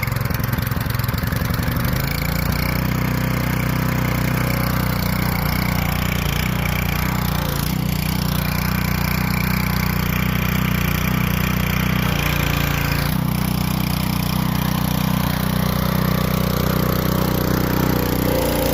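Dirt late model race car engine on its first cold start, just fired and settling within the first couple of seconds into a steady, loud idle.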